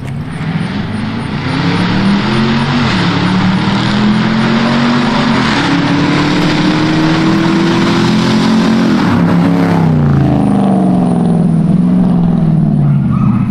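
A car engine accelerating hard, its pitch climbing through a gear change about three seconds in, then falling away as the car slows near the end, over a loud rush of wind and road noise that fades about ten seconds in.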